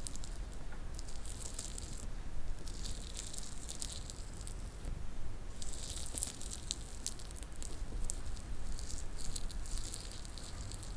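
Fingernails tapping and scratching on small hard objects for ASMR, in quick clusters of fine, crisp clicks that come in patches a second or two long with short pauses between.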